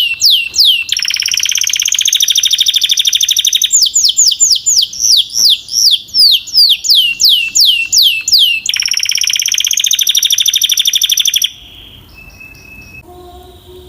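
Belgian canary singing loudly: runs of quick falling whistled notes, several a second, alternate with fast rolling trills. The song cuts off suddenly near the end, leaving only faint chirps.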